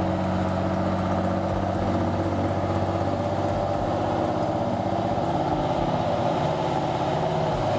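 Heavy diesel logging truck engine running at a steady pace: a low, even drone with a fine rapid clatter over it.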